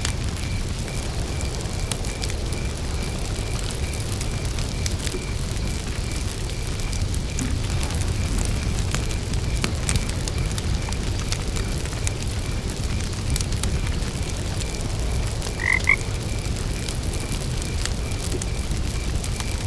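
Campfire burning with a low rumble and scattered crackles, over a steady pulsing cricket trill. About three-quarters of the way through, a frog croaks twice in quick succession.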